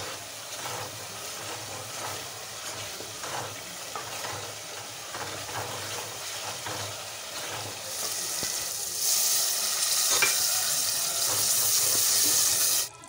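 Curry masala sizzling as it fries in oil in an aluminium pot, a wooden spoon stirring and scraping through it. The sizzle grows louder about nine seconds in and cuts off abruptly just before the end.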